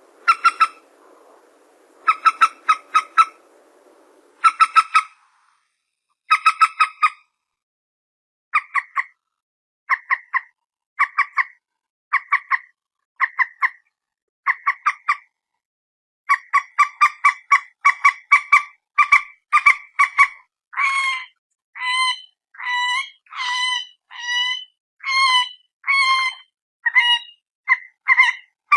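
Bird called peruk or mandar batu giving loud, sharp call notes in quick clusters of three to five, separated by short pauses. In the second half it runs into a faster, almost unbroken series of longer notes that bend slightly in pitch.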